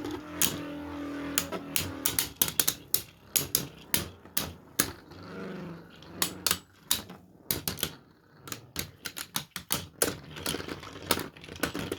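3D-printed Beyblade spinning tops clashing in a plastic stadium: rapid, irregular clicks and knocks as they hit each other and the stadium walls.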